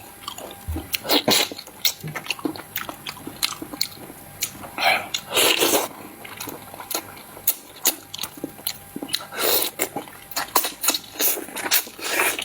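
Close-miked chewing and mouth sounds: a run of quick wet clicks and smacks, with a few longer noisy swells about five and ten seconds in.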